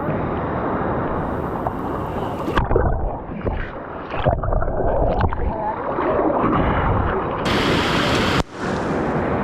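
Rushing river water close to the microphone, with scattered splashes; the sound changes abruptly a few times.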